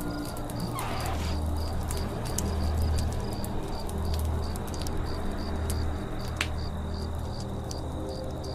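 Campfire crackling with scattered sharp snaps and one louder pop about six seconds in, over a steady high chirping that repeats three to four times a second.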